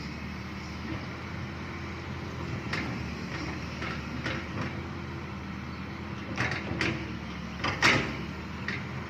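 Excavator's diesel engine running steadily under load, with several sharp metallic clanks and knocks from the working bucket and arm. The loudest clank comes near the end.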